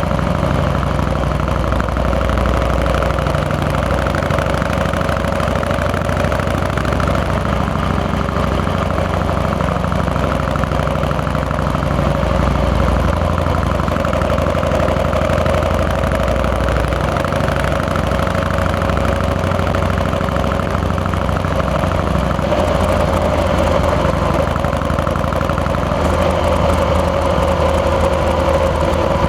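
Harley-Davidson Fat Boy's Twin Cam 88 V-twin engine running steadily under way, its note shifting a little now and then with the throttle.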